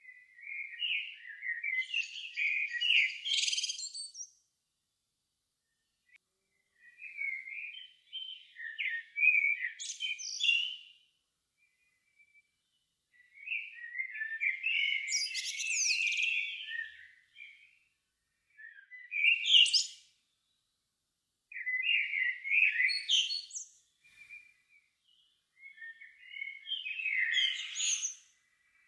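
Evening birdsong: six warbling song phrases of one to four seconds each, separated by short pauses, with each phrase climbing into higher twittering near its end.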